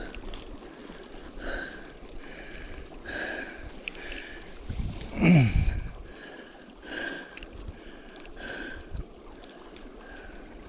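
Running river water with a steady rush. A short high chirp repeats about once a second, and one loud sound falling steeply in pitch comes about five seconds in.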